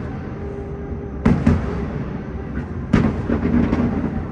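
Distant fireworks bursting, heard from inside a gondola cabin: two bangs close together about a second in and another about three seconds in, each with a deep low thud.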